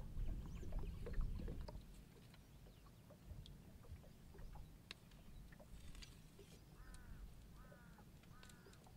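A low rumble with scattered clicks and knocks for the first two seconds, then quieter. Near the end a bird gives three short, evenly spaced calls, each falling in pitch.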